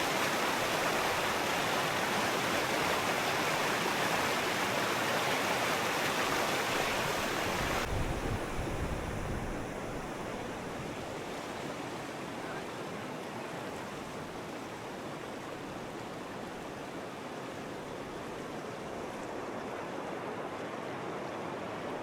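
Steady rushing of a river. About eight seconds in there is a brief low rumble, and after that the rush is quieter and duller.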